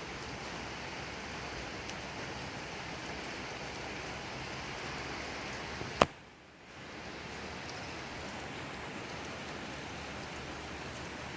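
Steady rainfall, an even hiss of falling rain. About six seconds in a single sharp click cuts through, and the rain drops away for about a second before fading back in.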